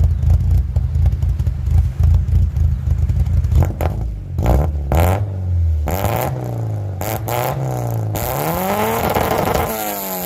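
Toyota Corolla's big-port 4A-GE 1.6-litre twin-cam 16-valve four-cylinder engine idling with a low, steady pulse, then revved up and down in several throttle blips from about four seconds in, with one longer rev rising and falling near the end.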